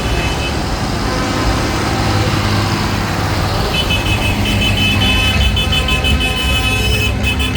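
Tractor engines running steadily as the tractors pass, with a vehicle horn sounding from about four seconds in.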